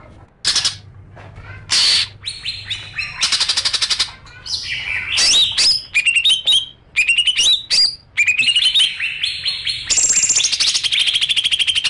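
Songbird singing: a string of loud, fast high trills and sharp chirps that sweep up and down, in bursts of a second or so separated by short pauses.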